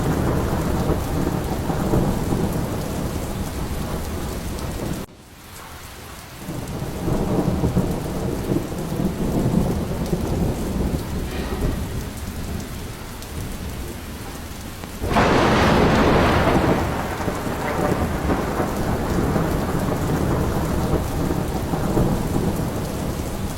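Steady heavy rain with rumbling thunder. The sound drops away suddenly about five seconds in and builds back up. About fifteen seconds in comes a sudden, louder thunderclap lasting about two seconds before the rain and rumble carry on.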